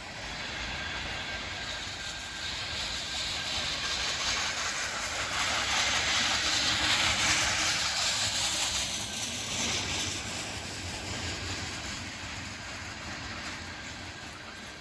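Freight train cars rolling past, steel wheels on the rails making a steady rushing hiss that grows louder to a peak about seven seconds in, then eases off.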